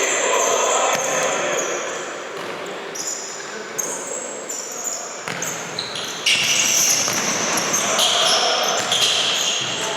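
Indoor futsal match: the ball bouncing and being kicked on the hard court, short high squeaks, and players' shouts, all echoing in a large sports hall.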